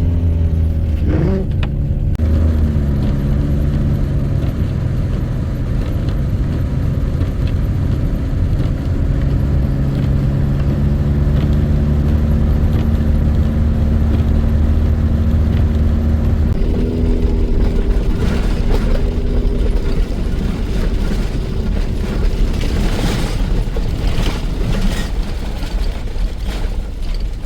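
RV engine running under load, heard from inside the cab while driving in snow, with a steady low drone. The engine note rises and shifts about a second in, then changes again about two-thirds through. Scattered short knocks and rattles come near the end.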